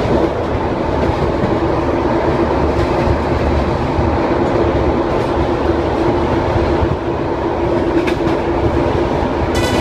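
A Beovoz suburban electric train running, heard from inside the carriage: a steady rumble with a constant hum, and a few faint clicks from the wheels on the track.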